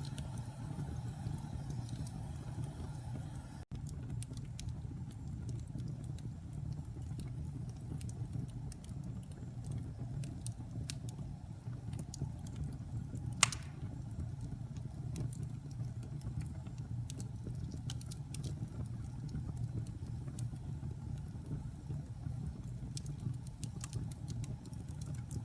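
Wood fire burning in a fireplace: a steady low rumble of flames with scattered small crackles and one louder pop about halfway through. The sound cuts out for an instant about four seconds in.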